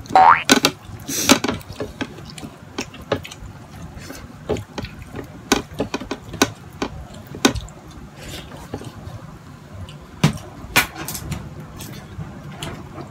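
Close-up mukbang eating sounds: wet chewing and mouth smacks from a person eating with his fingers, with irregular sharp clicks throughout and a short rising squeak right at the start.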